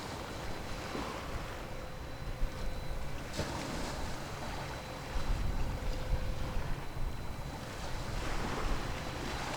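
Sea waves washing in every few seconds, with wind buffeting the microphone. A low rumble underneath grows louder about five seconds in.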